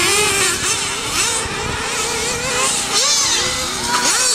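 Several RC race truggies and buggies on track, their small high-revving motors whining up and down in pitch as they speed up and slow down, overlapping one another.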